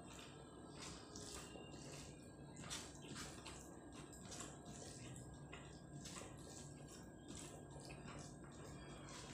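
Faint wet eating sounds of someone chewing a mouthful of rice and chicken curry, with soft irregular mouth clicks about once or twice a second over a low steady background hum.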